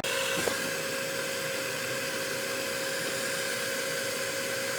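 A machine running steadily: an even whoosh with a steady mid-pitched hum, and one light click about half a second in.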